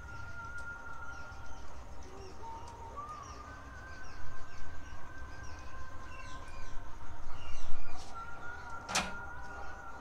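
Birds chirping and calling, with a sharp click about nine seconds in.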